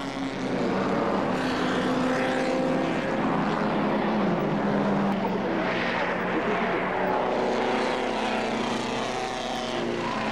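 Pre-war racing car engines running hard at speed, the engine note rising and falling a few times.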